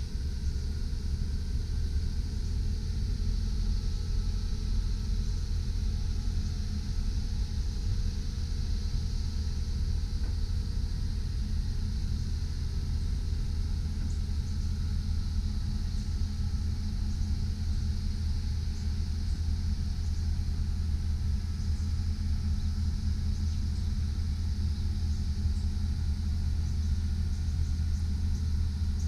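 2001 GMC Sierra 3500 HD bucket truck's engine idling, a low, even drone that holds steady throughout.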